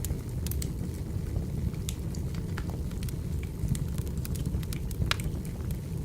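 Wood fire burning, with a steady low rumble under scattered, irregular sharp crackles and pops from the burning logs; one louder pop comes about five seconds in.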